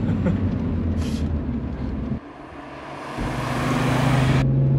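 BMW M3 E46's S54 3.2-litre straight-six, fitted with a Supersprint exhaust, running on the road. About two seconds in the engine note drops away for about a second, then comes back and climbs slowly in pitch. A rushing noise builds over the second half and cuts off suddenly near the end.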